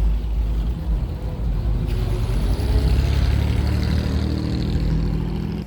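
A classic car's engine running at low revs. Its steady pitched note grows louder about halfway through.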